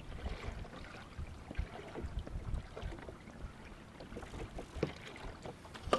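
Choppy water slapping irregularly against a fishing kayak's hull, with scattered knocks and wind on the microphone.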